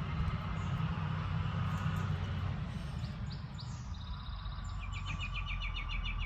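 A bird singing: scattered short chirps, then a fast, even run of repeated notes from about four seconds in, over a steady low rumble.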